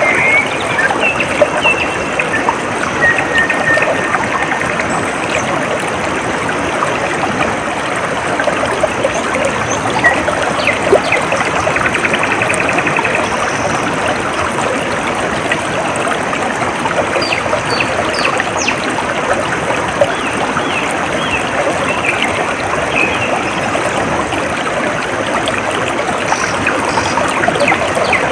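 Shallow water trickling and babbling steadily over stones, with birds chirping now and then and a short trill about halfway through.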